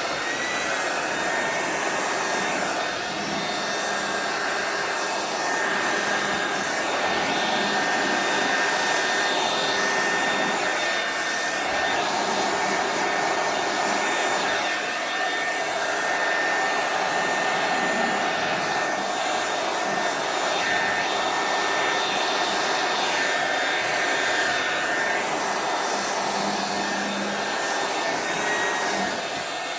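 Hair dryer running steadily, a loud rush of air with a high whine, blowing wet acrylic paint across a canvas; it shuts off right at the end.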